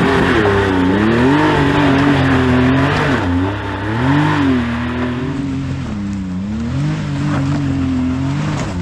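Side-by-side UTV engine climbing a steep trail on changing throttle, its pitch rising and falling every second or two. It is louder for the first three seconds, then a little lower.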